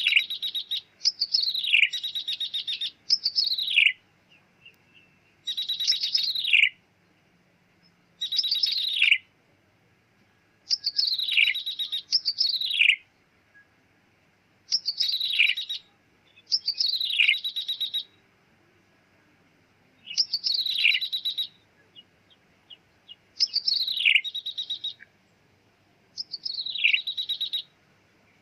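Ciblek tebu, a prinia, calling: repeated loud phrases, each a downward-sliding note followed by a fast buzzy rattle, coming in pairs with short pauses between. A recorded bird-lure call.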